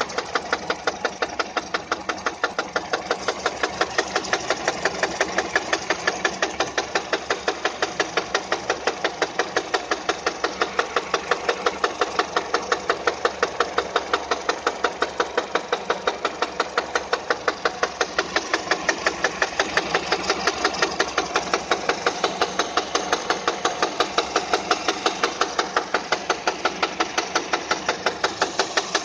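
Peugeot 207 engine idling with a sharp, regular knock repeating a few times a second: the engine knock the owner is recording.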